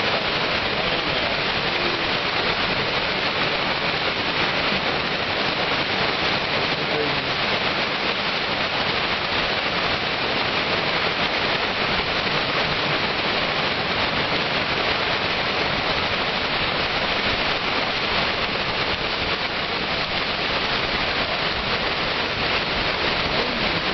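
Fast-flowing floodwater rushing past: a dense, even hiss of moving water that holds steady throughout.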